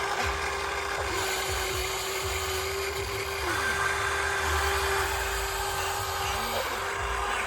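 Remote-control hydraulic excavator running, with a steady whine whose pitch dips briefly and recovers about five times, over a low rumble.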